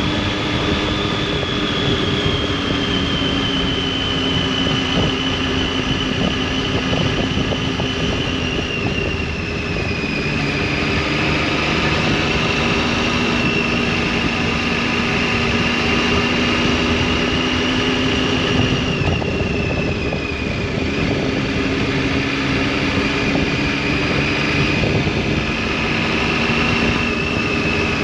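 Triumph Tiger 800's three-cylinder engine and exhaust running steadily under way. The engine note eases down about a third of the way in and again about two-thirds in, then picks back up.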